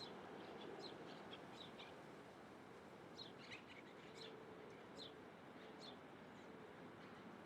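Faint short bird chirps, a quick run of them in the first two seconds and a few more spaced calls between about three and six seconds in, over a steady background hiss.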